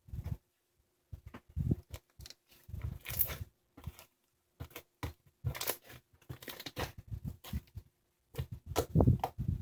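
Handmade watermelon sherbet being worked, giving irregular short bursts of crunching and crinkling with brief pauses between them; the loudest bursts come near the end.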